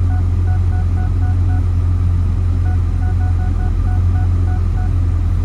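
2013 Corvette Grand Sport's 6.2-litre LS3 V8 idling with a steady low rumble. Two quick runs of short electronic chimes, about five a second, sound from the car over it, one about half a second in and one from about three to five seconds.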